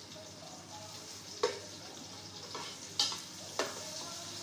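Onions and tomatoes sizzling in oil in a steel pot over a medium flame, stirred with a metal spatula that knocks sharply against the pot three times.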